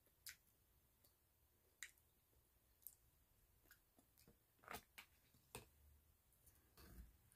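Near silence broken by faint, scattered wet mouth clicks and smacks from chewing, about five spread over several seconds, then a soft knock near the end.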